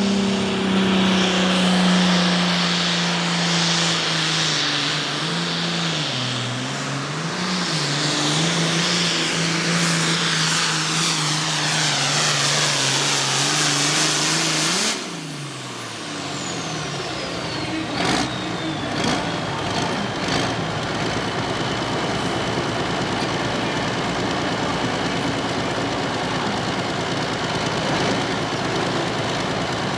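Super Farm pulling tractor's turbocharged diesel engine running flat out with a high turbo whistle as it drags the sled, its pitch wavering briefly partway through. About halfway in, the engine cuts off suddenly and the turbo whistle winds down, falling slowly in pitch over several seconds.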